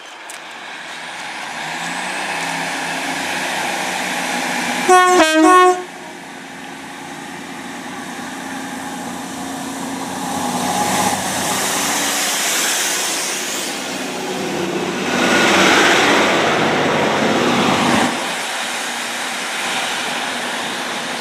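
A Great Western Railway Class 150 diesel multiple unit approaches and sounds its horn, two short blasts about five seconds in. It then runs past close by: the diesel engine's rumble and the wheels on the rails peak for a few seconds before fading as it moves away.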